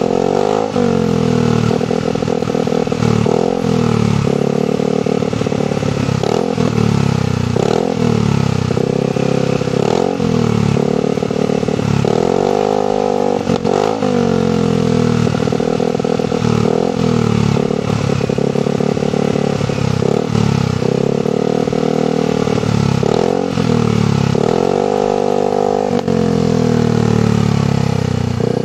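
Yamaha NMAX scooter's single-cylinder engine running through an aftermarket DOS-style long oval silencer, blipped over and over: the revs rise and fall repeatedly throughout.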